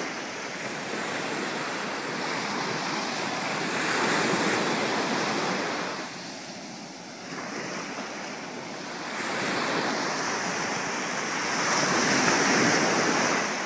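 Surf washing in on the shore, a steady rush that swells twice, about eight seconds apart, with wind buffeting the microphone.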